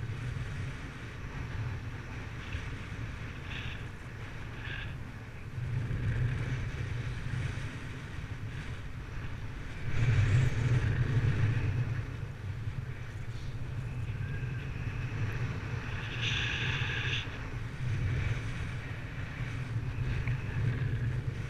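Wind rushing and buffeting over the microphone in flight, a steady low rumble that gusts louder about ten seconds in.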